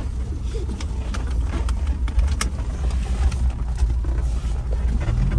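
Small mini-truck engine running low under the cab, heard from inside, with light clicks and rattles from the cabin. Near the end the engine note grows louder and deeper as it takes throttle.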